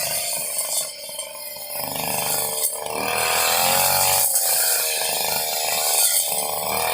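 Small two-stroke brush cutter engine running, its pitch shifting slightly and getting steadier about three seconds in.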